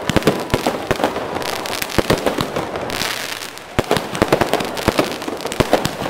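Fireworks going off in a rapid, irregular string of sharp pops and cracks over a continuous crackle, easing briefly midway before picking up again.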